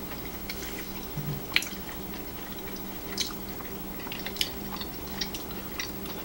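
Close-miked chewing and biting of quesadilla and olives: scattered soft wet mouth clicks and smacks, the sharpest about a second and a half in. A steady low hum runs underneath.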